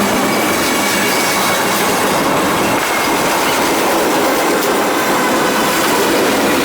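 Freight train cars rolling past on the rails: steady wheel-on-rail noise with a thin, high wheel squeal running through it.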